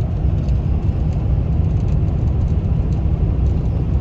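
Steady low rumble of road and wind noise from a vehicle on the move, without any pitch to it or any change in level.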